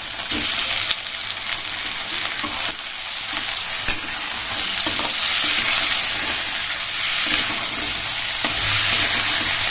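Chicken pieces frying in hot oil in a kadai with onion and green chillies: continuous loud sizzling that builds slightly, with a few brief clicks from stirring.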